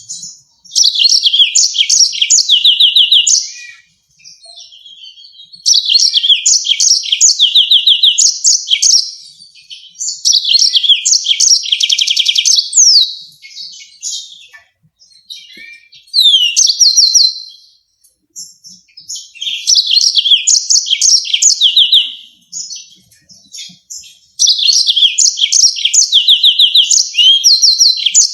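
Yellow-fronted canary singing in about six loud phrases of a few seconds each, separated by short pauses. The phrases are made of fast rolling trills and sharp, high shooting notes.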